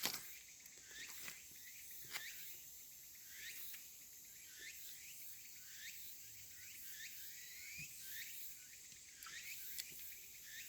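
Faint outdoor insect chorus: a steady high-pitched drone, with many short rising chirping calls scattered through it. A couple of sharp clicks sound at the start and about two seconds in.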